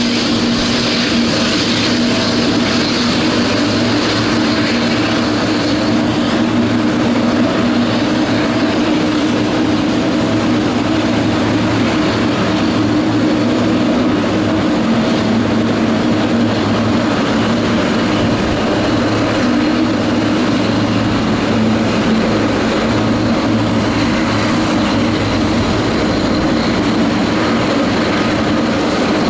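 Jet airliner engines running steadily, a continuous rumble and roar with a few held whining tones.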